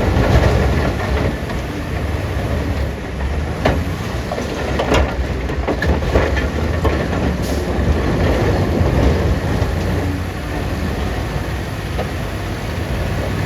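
Heavy diesel machinery running with a deep, steady rumble, with scattered sharp knocks and clatter through it, several of them clear single strikes.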